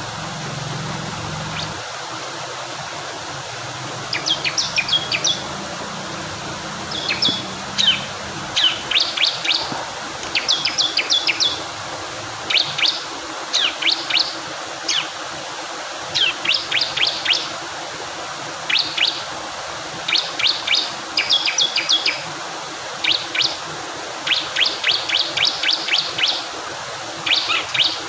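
Bar-winged prinia (ciblek kristal) singing: repeated short bursts of sharp, high chirps. The song starts about four seconds in, over a steady rush of flowing water.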